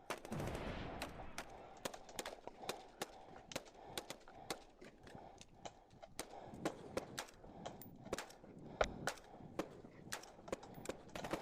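Airsoft replicas firing single shots: sharp snapping clicks at irregular intervals, a few each second.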